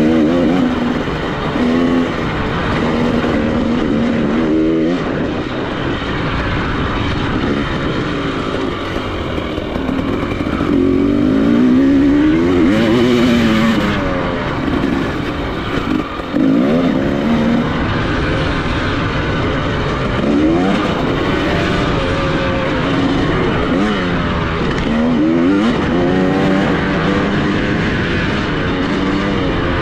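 Dirt bike engine ridden hard on a motocross track, revving up and dropping back over and over as the rider accelerates and shifts, with a short drop in level about halfway through.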